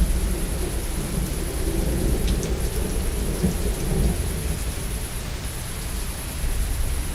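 Steady heavy rain with a low rolling rumble of thunder that fades away about four seconds in, leaving the rain alone.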